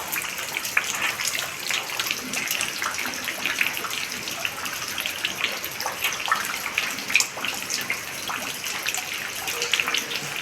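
Running water splashing and gurgling steadily, a dense, irregular patter of small splashes.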